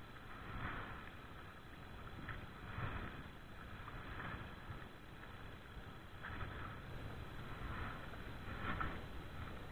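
Paddles dipping and swishing through the water as a small rowing boat is paddled along, a stroke every second or two, over a low rumble of wind on the microphone.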